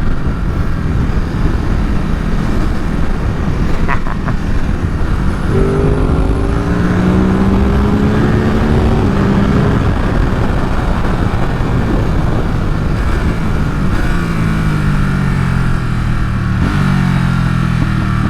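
Ducati Supersport 950 S's L-twin engine running under wind rush at road speed, its pitch climbing as it accelerates twice, from about five seconds in and again near the end.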